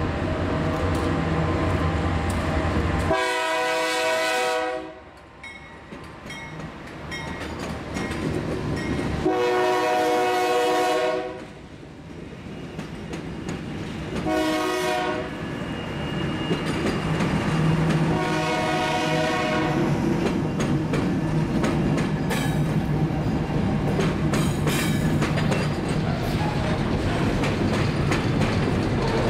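Diesel freight locomotives passing close by, sounding the horn four times in a long, long, short, long pattern. The engines pass, then loaded hopper wagons roll by with steady wheel clatter on the rails.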